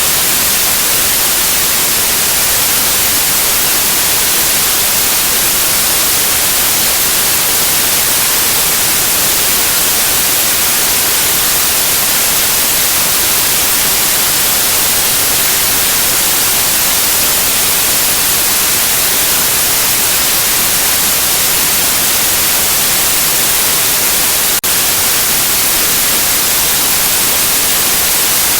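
Steady white noise: a loud, even hiss, brightest in the high end, played as a sleep and colic-calming sound for babies. One tiny click comes near the end.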